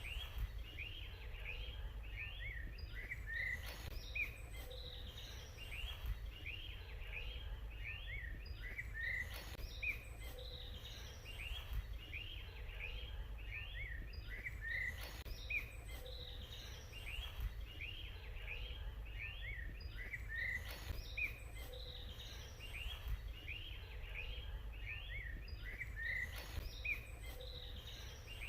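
Songbirds chirping continuously, many short high chirps overlapping one after another, over a steady low rumble.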